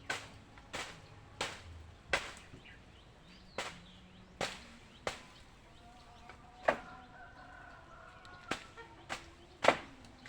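A hand tool striking again and again while an old chicken coop is torn down: sharp single blows, mostly under a second apart, with a longer pause in the middle.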